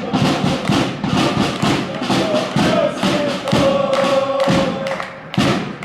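Group of football ultras singing a chant together over a drum beaten in a steady, quick rhythm.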